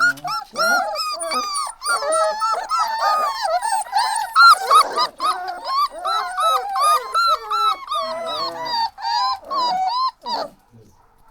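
Puppies whimpering and yelping in short, high cries that overlap one another, stopping about ten seconds in.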